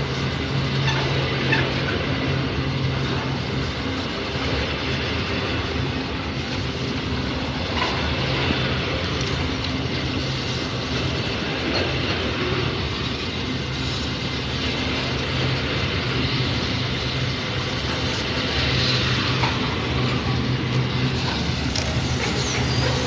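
Freight train running, with a steady low engine hum under a continuous rumble of the train.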